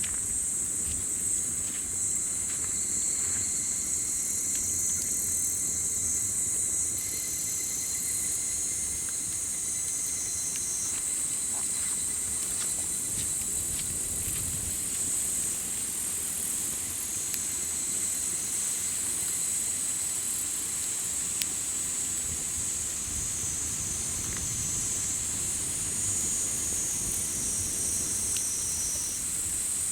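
Insects singing in a steady high-pitched chorus with a thin continuous trill, over a campfire crackling with scattered small pops and a low rumble.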